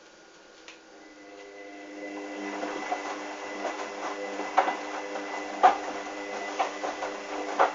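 A Hoover washing machine's drum motor starts up about a second in with a steady whine. The drum, loaded with wet towels, then turns through its wash tumble, with a knock about once a second.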